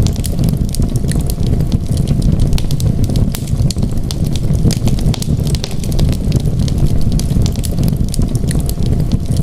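Wood fire in a fireplace crackling, with many small sharp pops over a steady low rumble of the flames.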